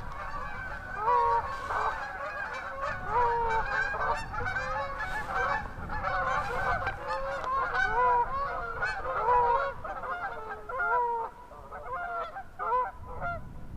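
A large flock of geese honking, many short calls overlapping continuously.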